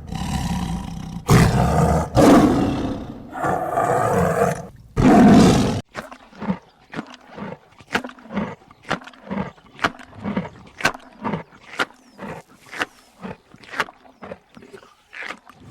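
Wild animal roaring, several loud, rough roars over the first six seconds, then a run of short, sharp animal calls at about two a second.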